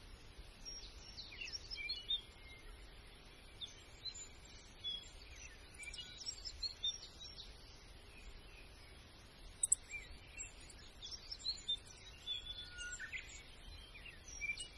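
Small birds chirping and calling on and off, short high chirps and quick gliding notes over a faint outdoor background, with a couple of sharp clicks about ten seconds in.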